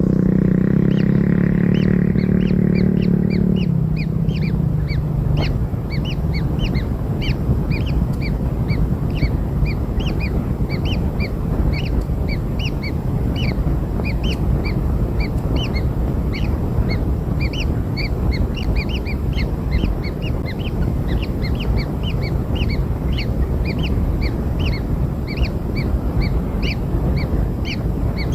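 Kingfisher nestlings begging: a rapid, continuous string of short high peeps from several chicks, several a second, over a steady low rumble. A low droning tone sits under them for the first few seconds, then stops.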